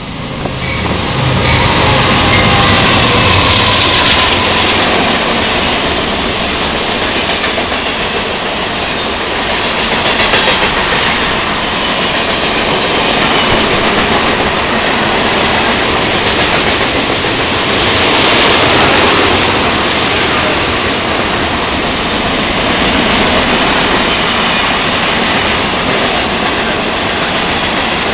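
CSX freight train passing at speed: the diesel locomotives' engines come in with a low rumble that builds over the first couple of seconds, then a long steady rumble and rattle of hopper cars rolling over the rails.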